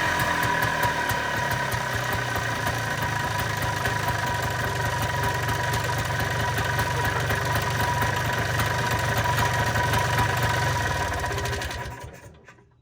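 A 1995 Polaris Trail Boss 250's two-stroke engine running steadily, newly brought to life by a fresh spark plug after a crank-no-start. It dies away about a second before the end.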